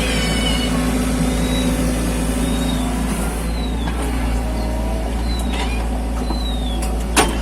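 Mini excavator engine running steadily, with short high squeals and a sharp metallic knock near the end.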